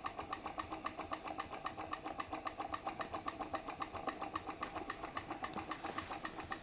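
Glass Stirling engine driving a Baker fan, working under the fan's load: an even, rhythmic beat of about seven clicks a second over a faint steady hum.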